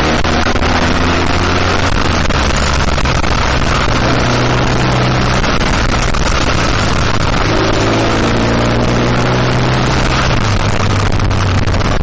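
Motorcycle engine running under load on a mountain road, its pitch shifting a few times as the revs change, with steady wind rush over the microphone. The bike is most likely the rider's own BMW R1200GS, whose engine is an air-cooled boxer twin.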